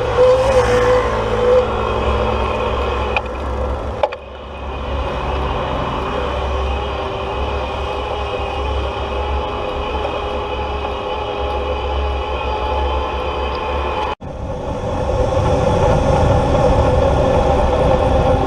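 Steady whine of an electric bike's motor over low rumbling road and wind noise while riding. The sound briefly drops out twice, about four seconds in and again near the end.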